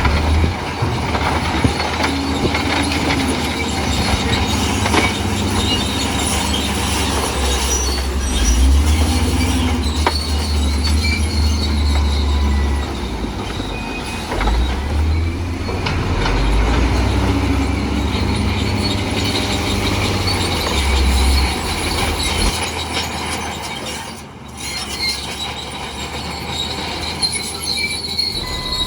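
Crawler bulldozer working: its diesel engine rumbles, rising and falling under load, while its steel tracks squeal and clank. The sound eases briefly near the end.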